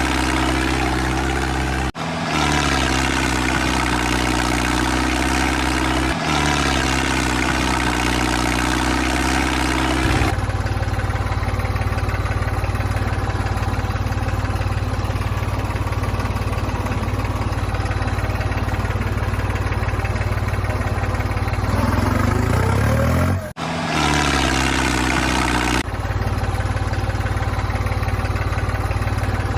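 Small motor of a mini tractor model running with a steady hum, broken off or changing abruptly several times. A rising whine comes shortly before one of the breaks, near the end.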